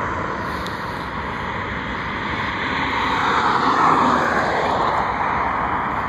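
Jet airliner's engines passing close by, a loud rushing roar that builds to a peak about four seconds in and then begins to fade.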